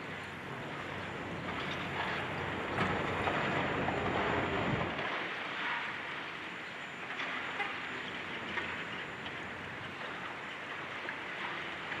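Demolition noise: a steady rattling, crunching clatter of breaking and falling debris over a heavy excavator's engine rumble, which drops away about five seconds in.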